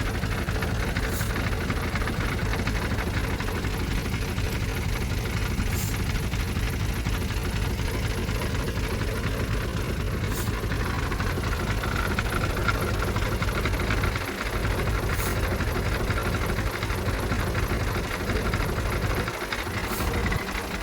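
Heavy diesel engine of earthmoving machinery running steadily, with a short dip in level about two-thirds of the way through.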